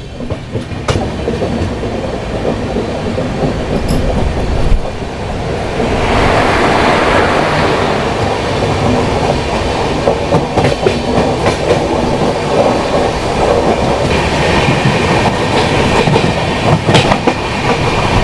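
Jan Shatabdi Express passenger train running, its wheels clattering over the rail joints. About six seconds in, a louder rushing noise sets in and stays, with wind blowing strongly.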